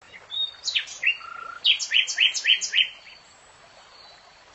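A songbird singing: a few high chirps and a short whistled note, then a quick run of five falling sweeps, about four a second, which stops about three seconds in.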